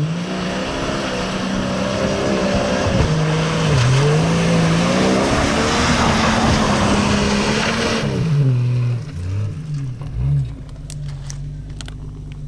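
A Jeep's engine revving up and down under load over a loud rushing noise. About eight seconds in the rushing stops and the engine eases to a lower, uneven run. Scattered sharp clicks come near the end.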